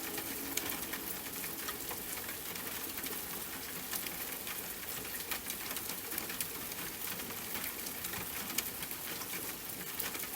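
Steady rain, an even hiss dense with the ticks of single drops striking a surface.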